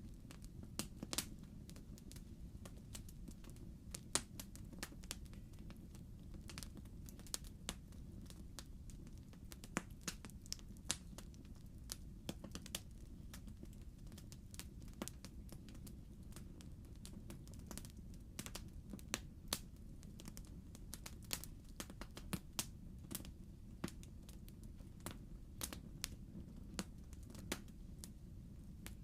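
Wood fire crackling in a fireplace: logs burning with frequent irregular sharp pops and snaps over a low steady rumble of the flames.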